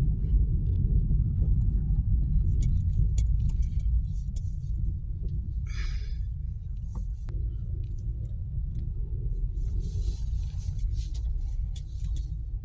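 Steady low road rumble of a moving car, with scattered light clicks and a short hiss about six seconds in and again near the end.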